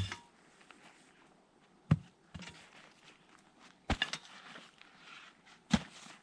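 Four dull thuds about two seconds apart, with faint rustling between them.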